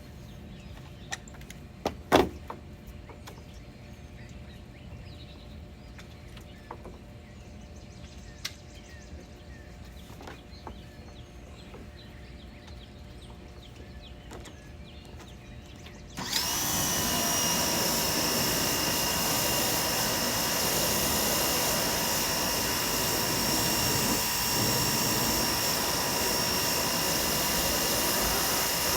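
A few sharp clicks and knocks, then about halfway through a Dewalt 2100 PSI electric pressure washer starts suddenly and runs steadily: a loud spray hiss with a high, steady whine.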